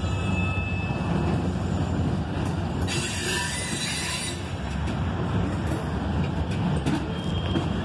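Herzog ballast hopper cars of a freight train rolling past on the rails: a steady rumble of wheels on track. A brief burst of hiss comes about three seconds in.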